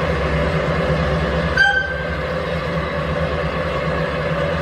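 Train running sound with a steady low rumble and hum; about one and a half seconds in, a locomotive whistle gives one short toot.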